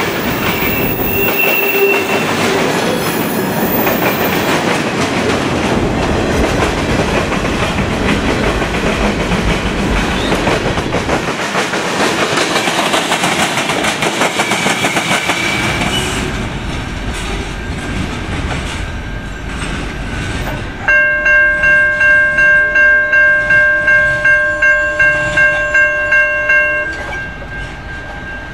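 Freight cars rolling past close by, with steady wheel clatter over the rails that fades as the train moves off. Then a railroad grade-crossing bell rings, a fast, even series of strikes lasting several seconds before it stops.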